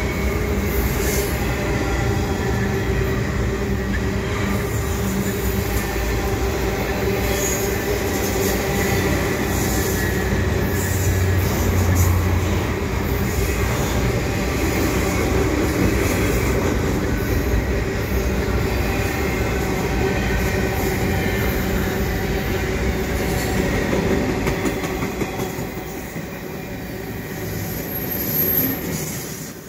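Double-stack intermodal freight train of container well cars rolling past close by: a steady rumble of steel wheels on the rails with a steady squeal of wheels running through it. It gets somewhat quieter near the end.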